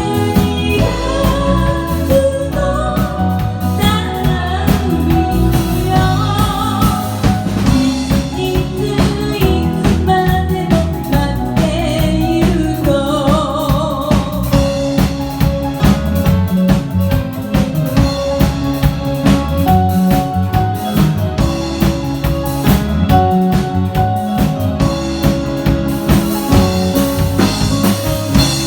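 A live pop band of vocals, keyboards, drum kit and bass playing a song. A singer holds long notes with vibrato over the steady drum beat, and the band carries on instrumentally in the second half.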